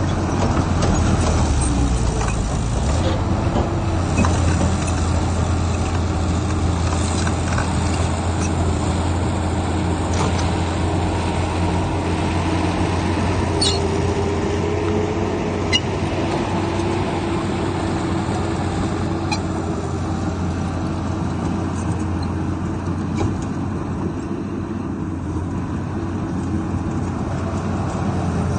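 Heavy diesel earthmoving machinery running steadily, with a few short, sharp clanks.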